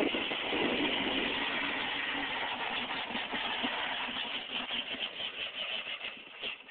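Motorcycle engine running steadily with a fast, even pulse, dropping away right at the end.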